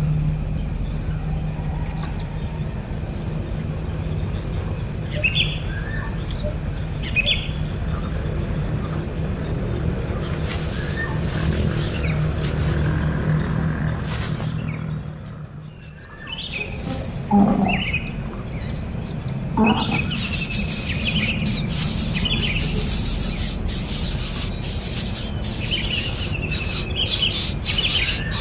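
Birds chirping in short, scattered calls over a steady high-pitched insect drone, the chirping growing denser and more rapid in the last third.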